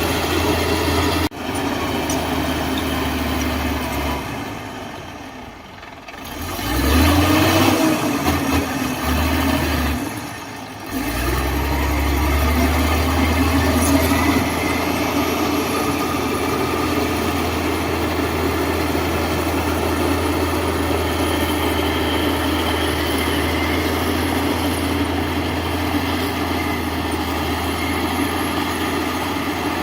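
Heavy diesel engine of earth-moving machinery running, a steady low hum that fades out twice early on and comes back, then holds even.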